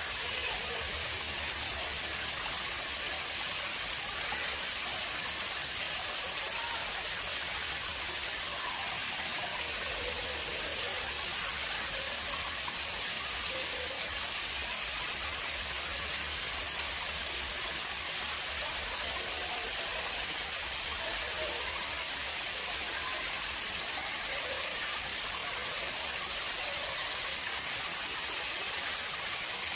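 Water flowing steadily in an artificial pond: an even, unbroken splashing of running water.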